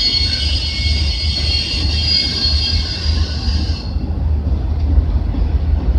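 Autorack freight cars rolling slowly past with a steady low rumble. A high, many-toned wheel squeal rings over it and cuts off about four seconds in.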